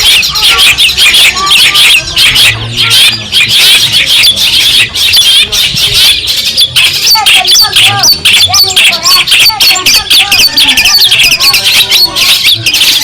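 Long-tailed shrike (cendet) of the Madura strain singing, a fast, unbroken run of harsh chattering and squeaky notes.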